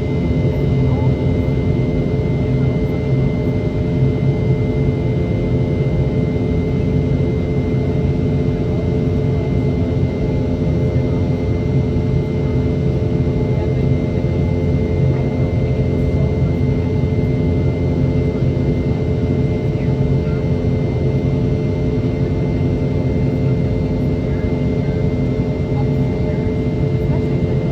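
Steady drone of a Boeing 717's rear-mounted Rolls-Royce BR715 turbofan engines, heard inside the cabin in flight shortly after takeoff. It is a low rumble with a fixed high whine from the engines running.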